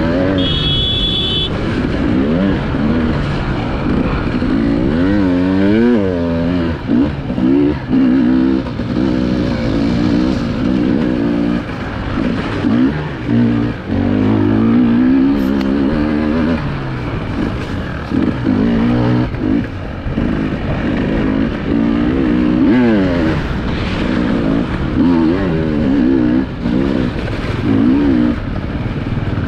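Enduro motorcycle engine ridden hard off-road, heard from on board: it revs up and falls away over and over, with short throttle cuts between bursts.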